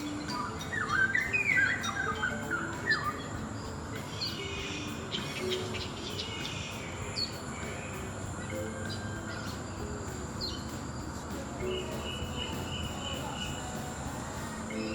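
Birds chirping and calling, busiest and loudest in the first three seconds, then scattered short chirps, over a steady high-pitched whine and outdoor background noise.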